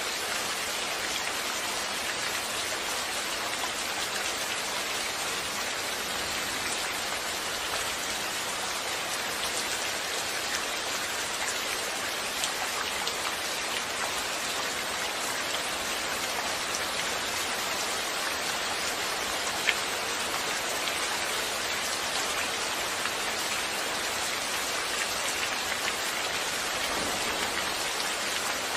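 Steady rain falling, an even hiss with scattered individual drops ticking on a surface; one louder drop about twenty seconds in.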